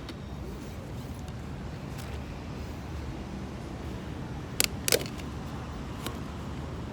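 Steady low city street background noise, with two sharp clicks close together about four and a half seconds in and a fainter click a second later.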